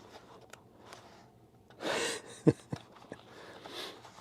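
A man's breath, drawn sharply once about two seconds in, with a short tap about half a second later and a softer breath near the end.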